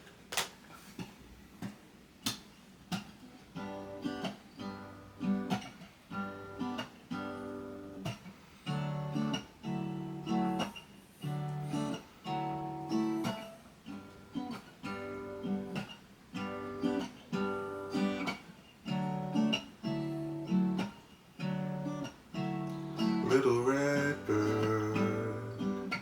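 Acoustic guitar intro: a few single plucked notes, then a steady, rhythmic pattern of strummed chords from about three seconds in, with a busier melodic run near the end.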